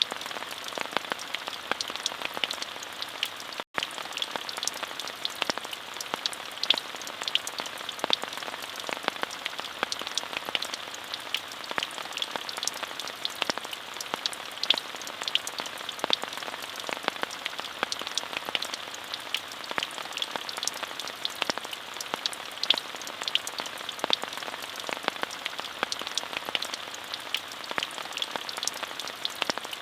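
Steady rain: an even hiss of falling rain with many sharp, individual drop ticks scattered through it. There is a split-second dropout about four seconds in.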